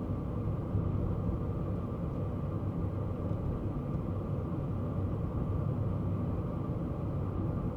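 Kei car driving at a steady pace: a constant low rumble of engine and road noise, with no sudden changes.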